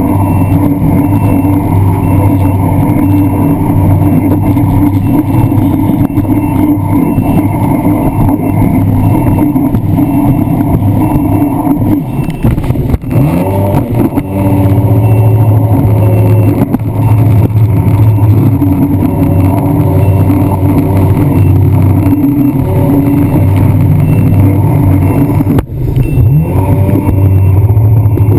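Jet ski engine running hard and steadily. The throttle is eased off twice, about halfway through and again near the end, each time with a brief dip and the engine pitch climbing back up.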